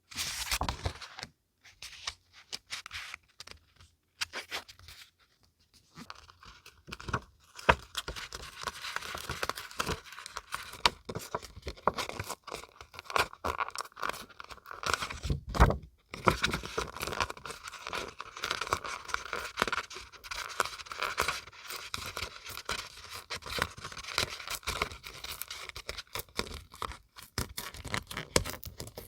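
Paper being handled close to the microphone: crackly rustling and tearing in short spurts at first, then near-continuous from about seven seconds in.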